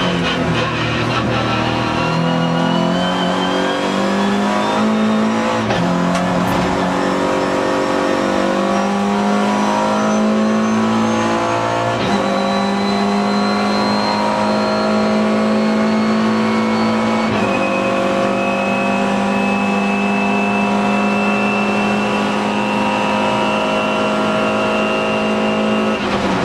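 Alfa Romeo 145 Cup race car's four-cylinder engine heard from inside the cabin, accelerating hard through the gears. Its pitch climbs in each gear and drops sharply at upshifts about 2, 6, 12 and 17 seconds in, then holds high and nearly steady, with a thin high whine rising and falling along with the engine.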